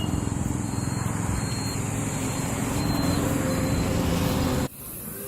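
Car driving on the road, a steady low rumble of engine and road noise heard from inside the cabin. It cuts off suddenly near the end to a much quieter background.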